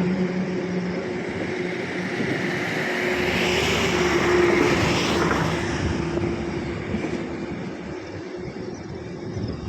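A vehicle's engine running, its noise swelling about four seconds in and then fading away, like a vehicle passing by.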